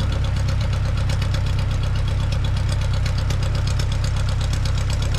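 Aeronca 7AC Champ's small four-cylinder air-cooled engine idling steadily, with an even, rapid firing beat.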